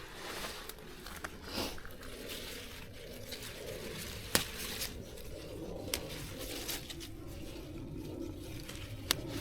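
Rustling and crinkling handling noise with a few sharp clicks, the loudest about four seconds in.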